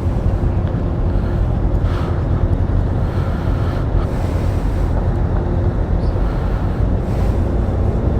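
Steady low rumble of a passenger ferry's engines, with wind noise on the microphone over it.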